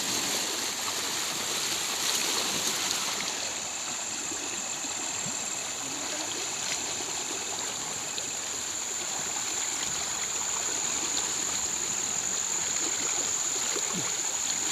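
River water flowing and trickling in a steady rush, with a steady high-pitched whine running over it.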